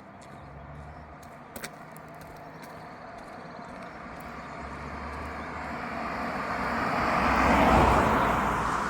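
A motor vehicle approaching and passing by. Its noise builds for several seconds, is loudest near the end, then begins to fade.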